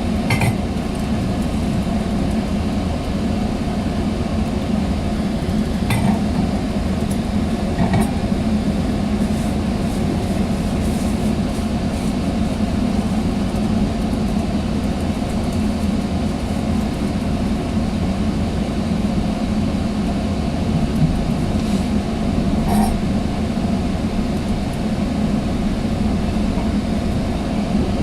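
Steady rumble of a Sounder commuter train heard from inside a passenger coach while it runs, with a few sharp clicks and rattles: one near the start, two about 6 and 8 seconds in, and one near the end.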